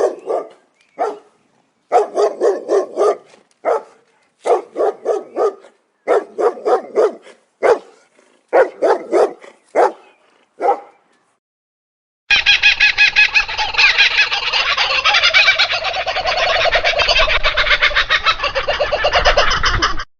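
Domestic fowl calling in a series of short rattling bursts, each about a second long and made of several quick pulses. After a short gap about twelve seconds in, a dense, continuous, higher-pitched sound takes over.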